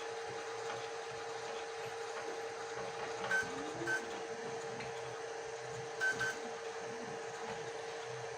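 FLSUN Super Racer delta 3D printer printing, its motors giving a steady, fairly quiet hum with an even tone. A few short high chirps come from its moves, two about three and four seconds in and a quick pair about six seconds in.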